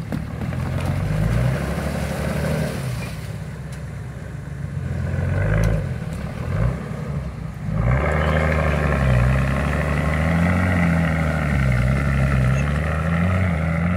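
Off-road SUV engine labouring under load as the vehicle tries to force its way through thick ice. It runs unevenly at first and eases off briefly, then about eight seconds in revs up hard and stays high, its pitch wavering up and down.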